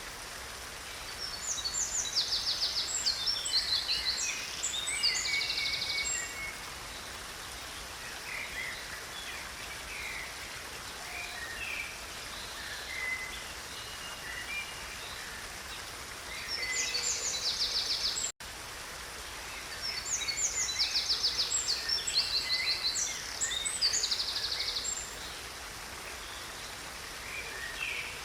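A stream running steadily, with songbirds singing rapid, high trilled phrases over it: a long stretch of song about a second in and again in the second half. The sound drops out for an instant a little past the middle.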